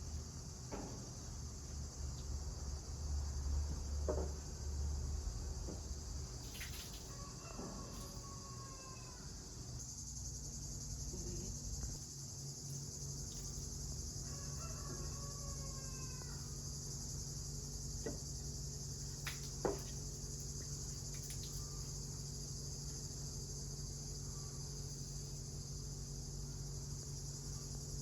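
Steady chorus of crickets, a continuous high-pitched trill, with a few short bird chirps in the first half and occasional sharp ticks.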